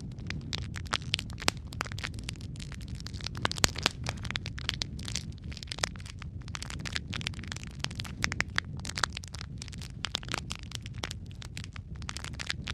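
Wood logs burning in a fireplace: a low steady rumble of flame with frequent irregular crackles and sharp pops.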